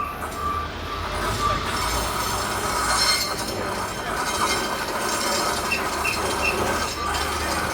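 Railway locomotive rolling slowly along depot track: a steady rumble of wheels on rail with some metallic squeal. About six seconds in there are three short high beeps.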